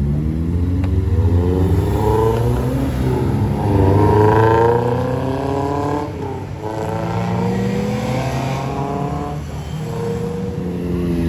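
Car engine revving and accelerating: its pitch climbs and falls back in several sweeps, with a sharp drop about six and a half seconds in, over a steady low engine note.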